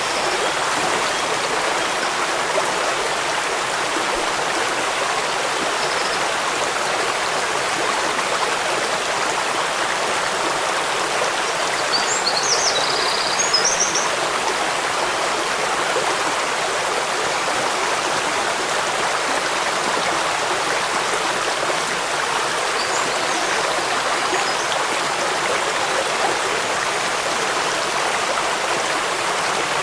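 Stream running over rocks, a steady rush of water, with a few short high chirps near the middle.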